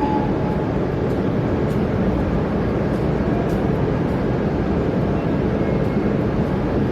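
E5 series Shinkansen train running, heard from inside the passenger car: a steady, even rumble of wheels and air with no change.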